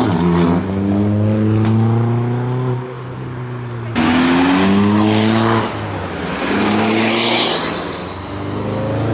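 Car engines revving and accelerating, the engine note climbing several times and dropping back between pulls, over a steady low drone from other engines running.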